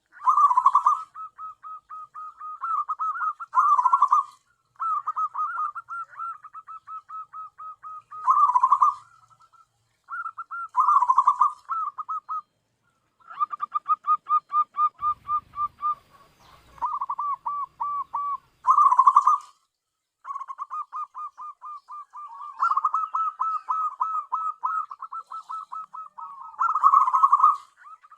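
Zebra dove (perkutut) cooing: phrases of rapid, stuttering notes, repeated over and over with short pauses between them.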